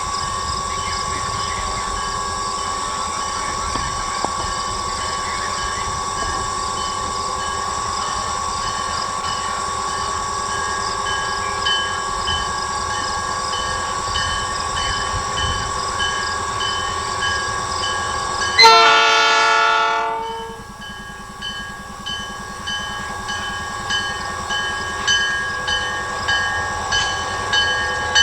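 A steady ringing with a regular beat, like a grade-crossing bell, runs for most of the stretch. About two-thirds of the way in, a diesel locomotive's horn sounds one loud short blast. After that, train wheels click over rail joints, the clicks coming faster toward the end.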